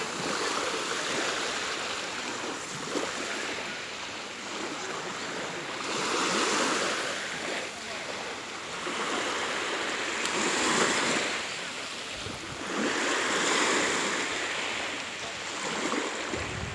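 Small waves washing onto the Sea of Azov shore, each wash swelling up and falling back every few seconds.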